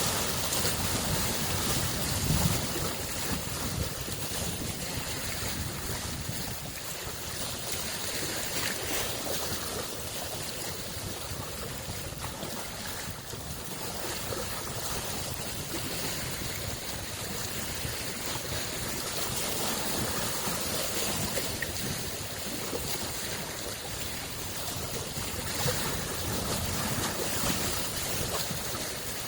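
Small lake waves lapping and washing on the shore in a steady wash of water noise that swells and eases gently, with a brief low thump about two and a half seconds in.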